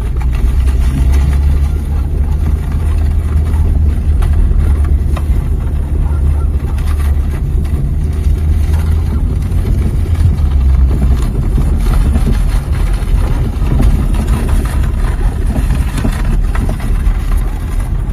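A motor vehicle's engine running steadily with a low drone, its note shifting about ten seconds in.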